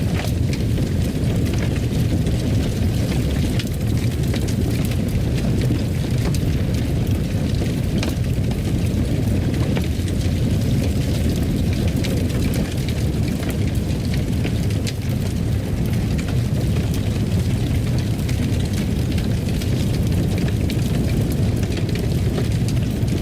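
Fire burning in a fireplace: a steady low rumble of flames with scattered small, sharp crackles.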